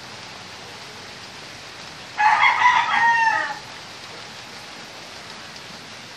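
A rooster crowing once, about a second and a half long and falling in pitch at the end, over a steady hiss.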